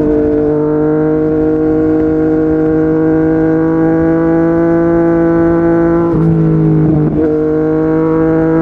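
Yamaha MT-09 inline-three engine through a Yoshimura R55 slip-on exhaust, pulling steadily under load with revs slowly climbing. Two quick upshifts follow about six and seven seconds in, each dropping the note slightly before it pulls on.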